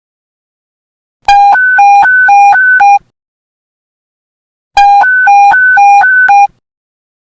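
Police radio panic-button alert tone: two bursts of rapid beeps alternating between a low and a high pitch, about four beeps a second, each burst lasting under two seconds with a short gap between them.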